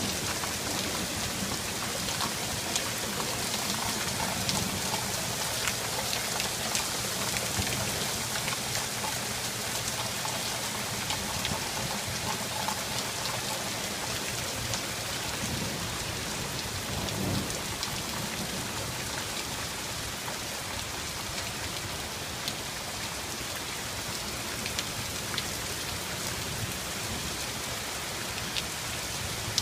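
Heavy thunderstorm rain falling steadily, with individual drops ticking sharply on a surface. A low rumble sits underneath for the first half and swells briefly a little past the middle.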